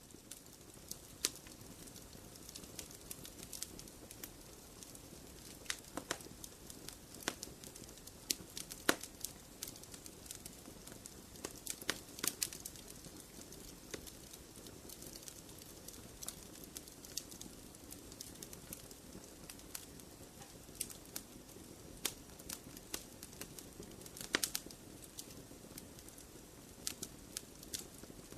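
Campfire crackling: frequent sharp, irregular pops over a steady hiss, with a few louder snaps scattered through.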